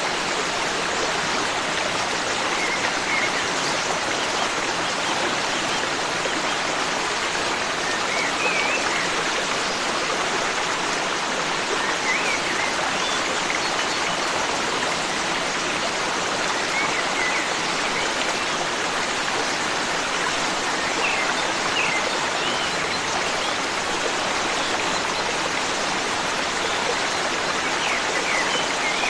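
Forest stream flowing steadily, with faint short bird chirps now and then over the water.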